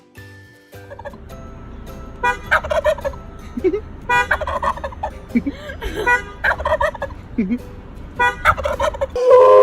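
Turkey gobbling four times, each gobble a quick rattling call of under a second, over a steady background hiss.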